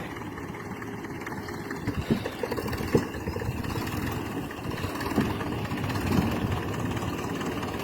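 Grey Ferguson tractor engine running steadily, with a couple of short knocks about two and three seconds in.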